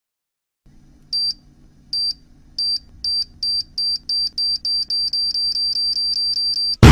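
High-pitched electronic beeps over a low hum, speeding up from about one a second to several a second. A sudden loud blast cuts them off at the very end.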